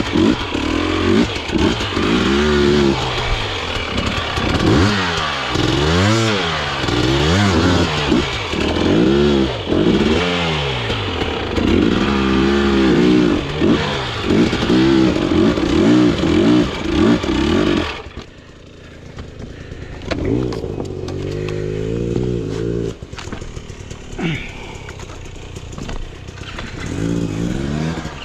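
Dirt bike engine revved hard and let off over and over, its pitch climbing and falling every second or so. About two-thirds of the way through it drops suddenly to quieter, more distant revving.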